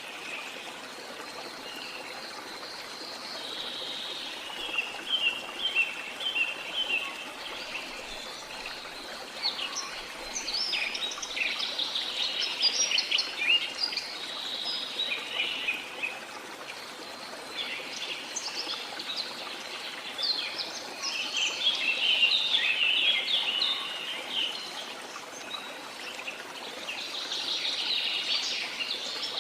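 Birds chirping and trilling in several bouts over the steady rush of a stream or waterfall.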